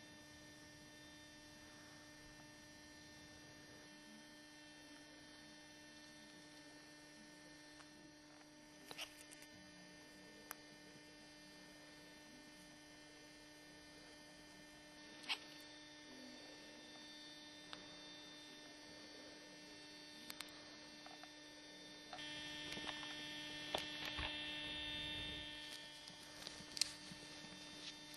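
Steady low electrical hum, with faint scattered clicks and a louder stretch about three quarters of the way through.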